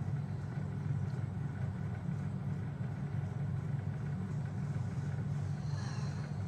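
Steady low mechanical hum at an even level, with no speech.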